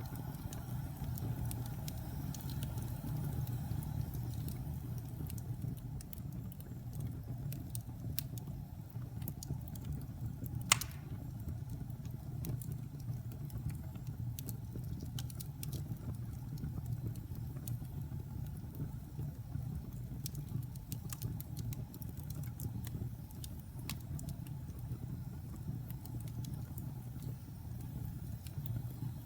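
Wood fire burning in a fireplace: a steady low rumble of flames with scattered small crackles, and one loud pop about a third of the way in.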